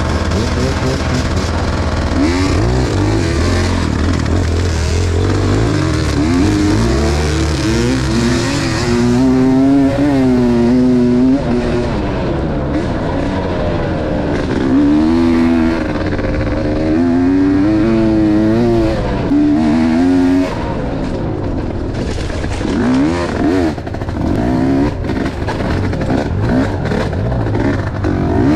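Enduro motorcycle engine running hard, its pitch rising and falling again and again with the throttle, with other motorcycle engines overlapping at times.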